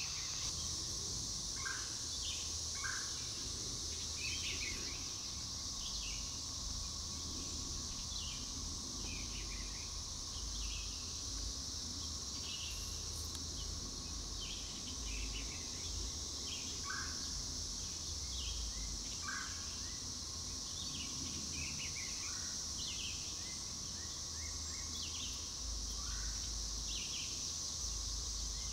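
Chorus of periodical cicadas, a steady high-pitched drone, with short bird chirps scattered throughout.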